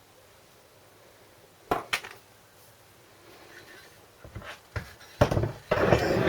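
Metal tools and small engine parts being handled on a workbench: two sharp clicks, then a few light knocks, then a louder run of metallic clinks and clatter near the end.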